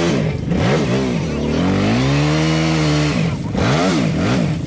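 ATV engine running under way, its pitch falling and climbing again twice as the throttle is eased off and opened back up, steady in between.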